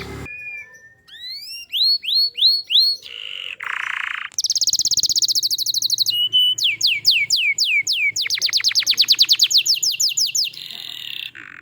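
Domestic canary singing a long, varied song: series of repeated sweeping whistled notes, broken by fast trills a few seconds in and again in the second half, with a few short held tones between phrases.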